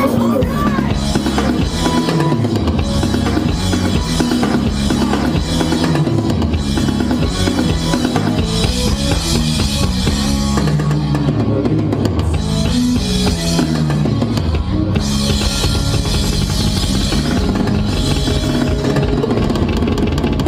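Live rock band playing loudly, with a full drum kit and a bass line stepping up and down under guitars.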